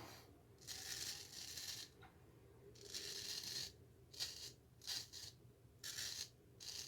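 Gold Dollar 59 straight razor scraping through lathered stubble: two strokes of about a second each, then several short, quick strokes.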